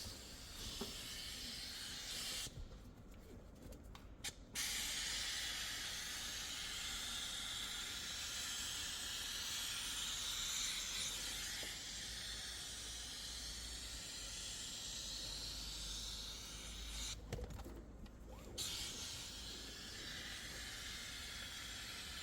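Steady hiss of a pressurised cleaning jet spraying, cut off twice briefly as the trigger is released.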